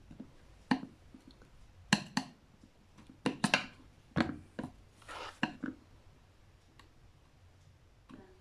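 Metal brake-booster parts and hand tools clicking and clinking as the booster is taken apart: about a dozen sharp, irregular knocks, with a short scraping rub about five seconds in.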